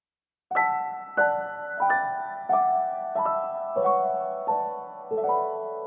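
Slow, gentle piano music: after half a second of silence, a note or chord is struck about every 0.6 seconds, each one fading before the next.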